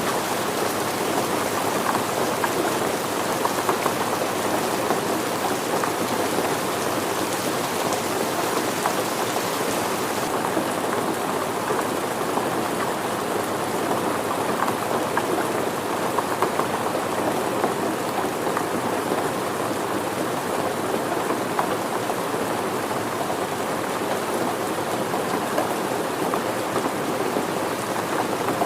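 Steady rain falling, a dense, even patter of many drops. The high hiss softens slightly about ten seconds in.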